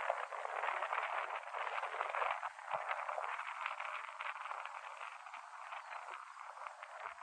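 Jet airliner engine noise at a distance, a steady crackling rasp with no low rumble.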